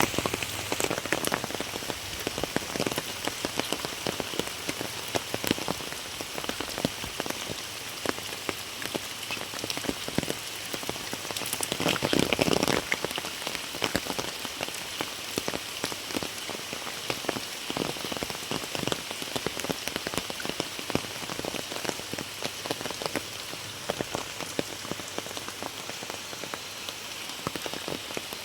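Very heavy rain falling and pattering on surfaces, a dense steady hiss full of individual drop hits, swelling louder for about a second and a half around twelve seconds in.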